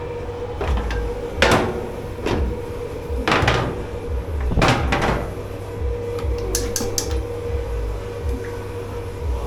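Dishes and kitchenware knocking and clattering several times as they are handled, over a steady hum and low rumble of kitchen machinery. A few sharp light clicks follow near the end.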